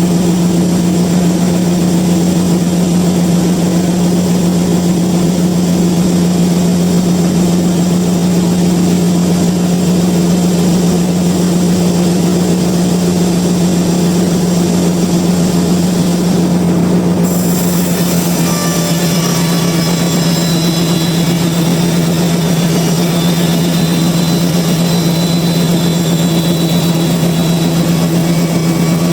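Sawmill machinery running with a steady, unchanging drone and a hiss over it.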